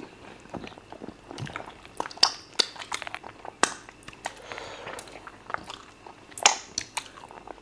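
Close-miked eating sounds: chewing mouthfuls of fufu with peanut spinach soup and chicken, with scattered sharp wet mouth clicks and lip smacks, a few of them standing out louder.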